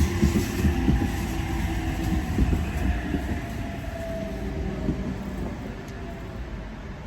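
A train running past on the rails with a low rumble and wheel knocks, and a faint whine that slowly falls in pitch. It fades steadily as the train moves away.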